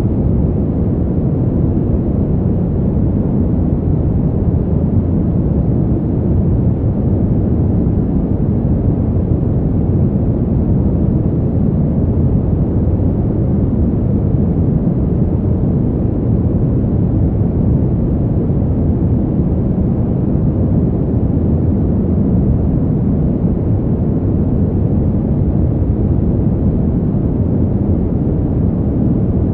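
Steady winter wind ambience: a deep, even rush with little high end and no gusts or breaks.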